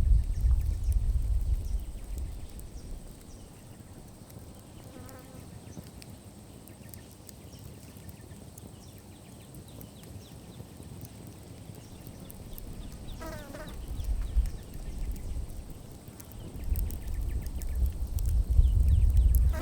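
Campfire crackling with small ticks and pops, over a low rumble that swells at the start, briefly in the middle and again near the end. Short bird chirps come three times.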